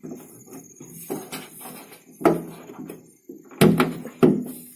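Metal clanks and knocks from a WagonR's bonnet stay rod being pulled from its clip and swung up to prop the open bonnet, ending in two sharp knocks near the end.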